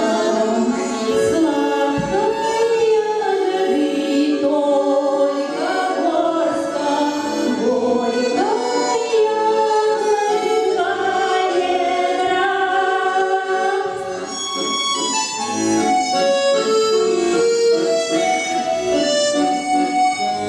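Accordion music, with a singing voice over it in the first half.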